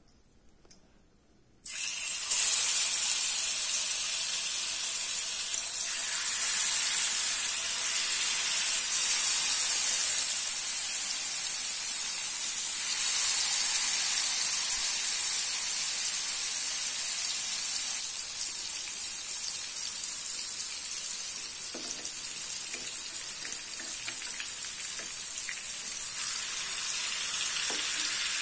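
Marinated paneer pieces shallow-frying in hot oil in a nonstick pan: a loud, steady oil sizzle that starts suddenly about two seconds in as the pieces go into the oil, after a moment of near silence with a couple of light clicks.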